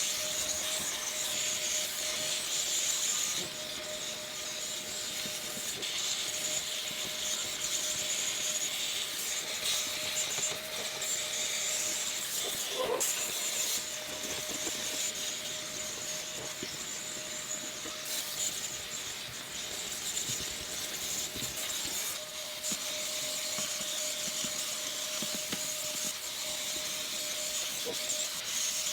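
A cleaning machine running with a steady hiss and a constant motor whine, with a few brief scraping or rubbing sounds partway through.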